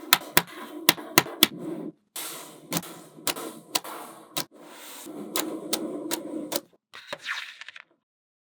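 Small magnetic balls clicking sharply as they snap together, over a steady rattling clatter of balls rolling and rubbing against each other. It stops briefly about two seconds in and cuts to silence near the end.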